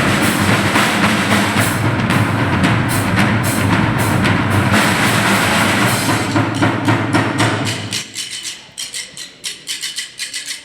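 Drums playing a dense, loud percussion rhythm. About eight seconds in it thins out to sparse, quieter sharp clicks, like sticks on wood.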